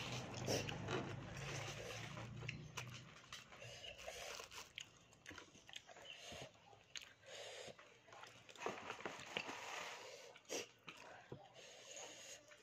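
Close-up crunching and chewing of crispy fried grasshoppers eaten with rice, a run of irregular crisp crackles.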